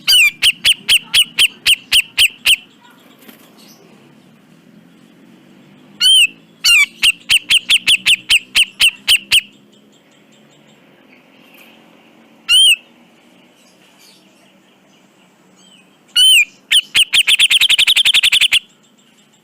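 Cucak jenggot (grey-cheeked bulbul) calling loudly: rattling series of sharp, rapidly repeated notes, a few seconds each, with a lone note between, and a much faster rattle near the end.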